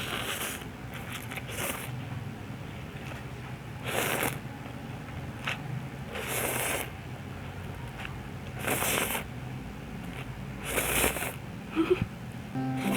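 A person slurping and eating noodles from a bowl of soup, in about six short, noisy slurps spaced a couple of seconds apart.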